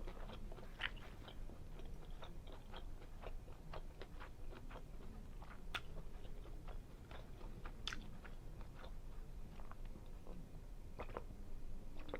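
Close-up chewing of food with lips smacking, in many small irregular wet clicks.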